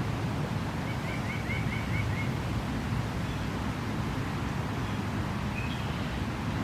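Creek water running steadily, with a small songbird giving a quick run of about seven chirps about a second in and one short call near the end.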